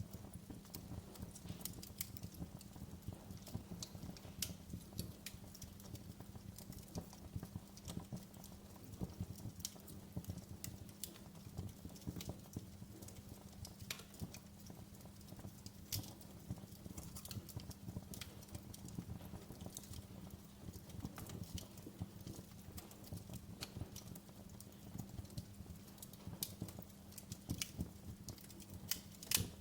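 Wood fire in a fireplace crackling: irregular sharp pops and snaps over a low steady background, with a louder cluster of pops near the end.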